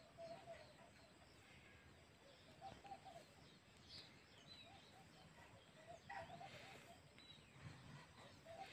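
Faint outdoor background with distant birds calling in short chirps every second or two.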